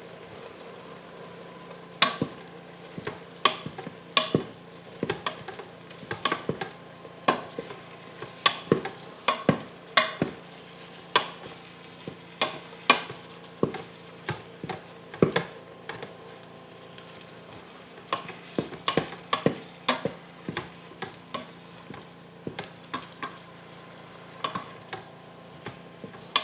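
A utensil knocking and scraping against the pot as ground beef is stirred and broken up while it browns, with irregular sharp clacks and a faint sizzle underneath.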